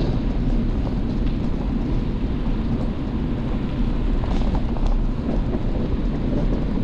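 Steady low rumble of wind buffeting the microphone and bicycle tyres rolling on a wet trail while riding, with a few faint ticks.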